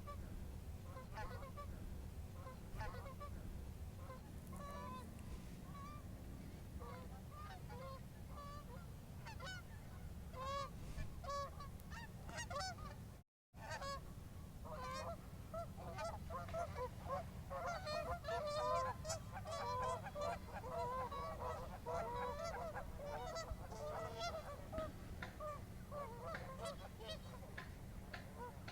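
A flock of geese honking: scattered calls at first, then many overlapping honks after a brief cutout about halfway through, over a steady low rumble.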